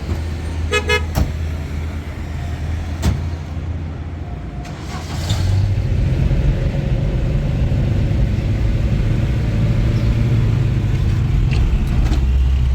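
Motor vehicle engine and road rumble, with a quick car horn toot about a second in. The rumble gets louder about five seconds in.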